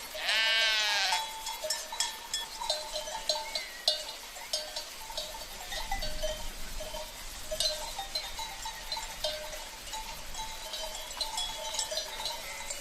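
A sheep bleats once, loud and wavering, for about a second at the start. Livestock bells clank irregularly after it.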